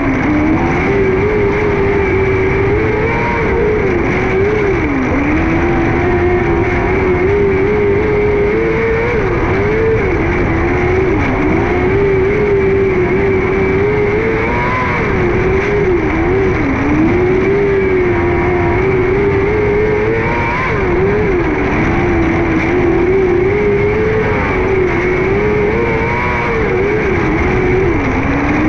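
A 600cc micro sprint car's motorcycle engine running hard at high revs. Its pitch drops and climbs back again and again as the throttle is lifted and reapplied, over a steady rush of noise.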